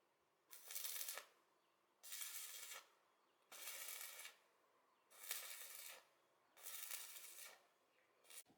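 Five evenly spaced scratchy strokes, each under a second long and about a second and a half apart, like a hand tool being drawn repeatedly across a surface.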